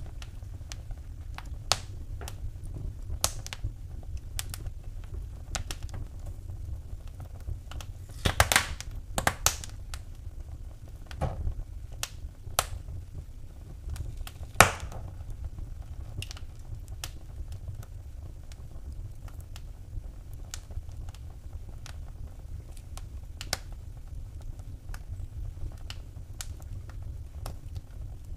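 Wood fire burning in a fireplace, crackling with irregular sharp snaps and pops over a low steady rumble of the flames. A cluster of louder snaps comes about a third of the way in, and a single loud pop about halfway.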